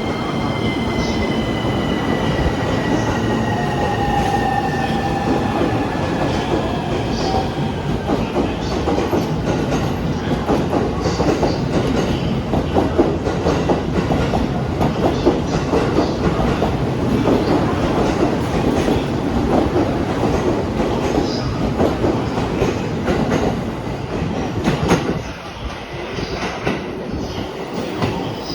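E231-series electric train pulling out and rolling past, its wheels clattering over rail joints and points in quick, uneven clicks, with faint falling tones early on. The sound drops off about 25 seconds in as the cars move away.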